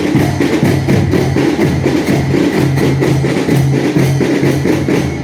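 Marching drum band playing a fast, steady beat: many quick drum strokes over a low, pitched bass line, starting abruptly just before and stopping shortly after.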